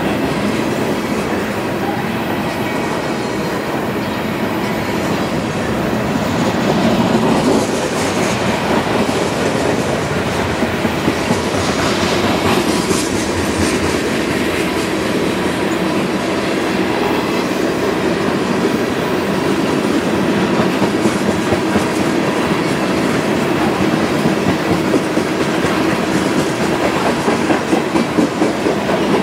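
Freight cars of a CSX manifest train rolling past, steel wheels running on the rails with a steady rumble and a continuous clickety-clack of wheelsets crossing rail joints. The wheel clicks come sharper and more often in the second half.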